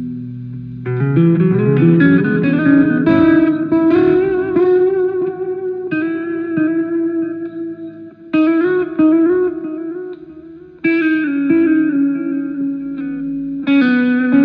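Guitar playing: notes and chords are plucked one after another and left to ring, with several fresh strikes and a held chord at the start.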